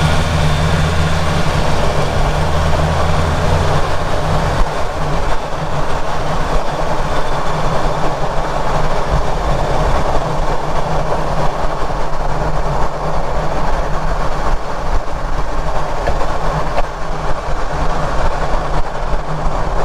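Road and driveline noise picked up under a moving Ford Ranger Raptor, with the microphone close to the prop shaft bearing and rear differential: a loud, steady rumble, with a low hum for the first few seconds that then fades. No distinct grinding stands out at this spot.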